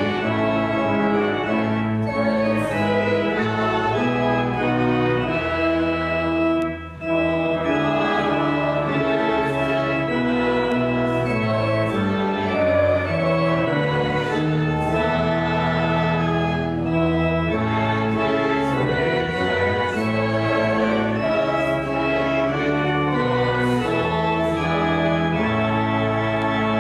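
The church's newly rebuilt organ playing sustained chords that change every second or two, with a brief break about seven seconds in.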